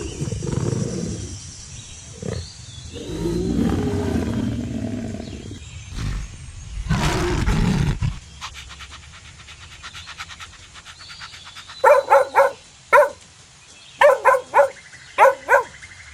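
A lion's deep, rough roars and growls for about the first half, which cut off suddenly. Later, a different animal gives short, high calls in quick groups of three or four.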